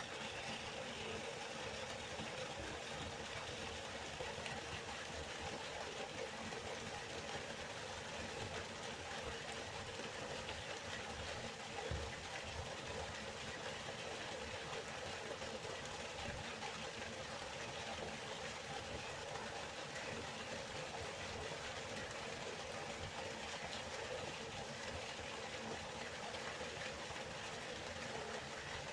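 River water flowing, a steady rushing sound, with one brief louder surge about twelve seconds in.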